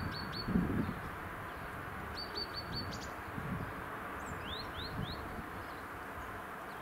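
Small birds chirping: a few short runs of high, quick notes, about four to a run, over steady outdoor background noise.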